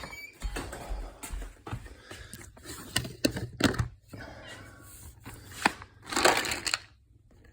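Handling noises: rustling and crinkling with scattered sharp clicks and knocks, and a louder rustle about six seconds in, dying to quiet near the end.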